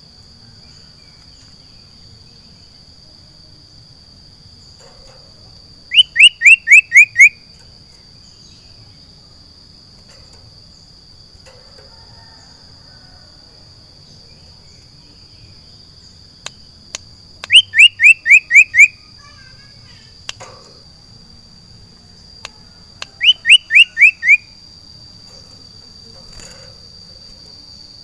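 Caged sirtu, an iora-type songbird, calling three times: each call a fast run of five or six sharp, whistled notes, each note sliding downward. A faint, steady, high-pitched tone runs underneath.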